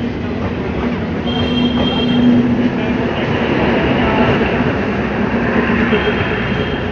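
CNG-powered DMU train moving past close by: a steady rumble of coaches and wheels, with a humming tone that comes and goes and a faint high whine about a second in.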